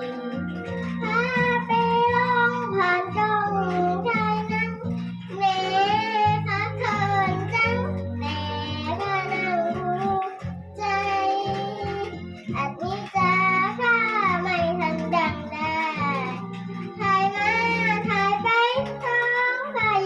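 A child singing a Thai song with a wavering vibrato, over a backing track of guitar and steady bass notes.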